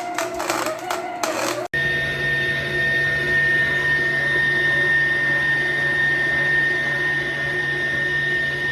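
COOKLEE SM-1551 660 W stand mixer's motor running at a steady speed, with a constant high-pitched whine over a low hum. The steady run begins after a sudden cut a little under two seconds in; before the cut there is a wavering tone with irregular noise.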